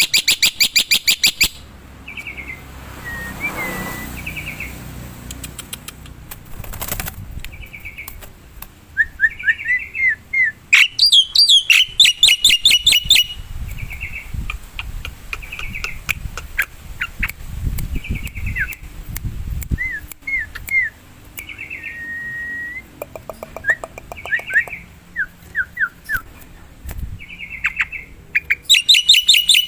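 Black-winged starling (jalak putih) calling: loud runs of rapid repeated chattering notes at the start, about eleven seconds in and near the end, with softer separate whistled and down-slurred notes in between.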